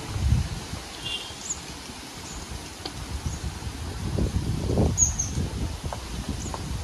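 Outdoor ambience: scattered short, high bird chirps over a low rustling rumble, which grows louder around four to five seconds in.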